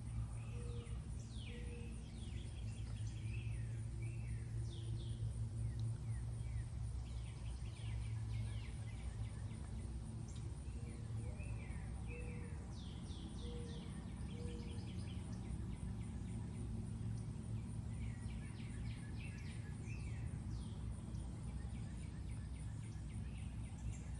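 Birds chirping, with many quick downward-sweeping calls repeated throughout and a few short low notes, over a steady low background hum.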